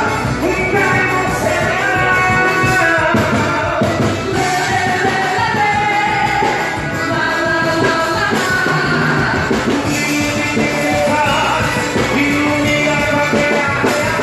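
Quadrilha junina show music: a band playing a lively song with a singer's voice carrying the melody.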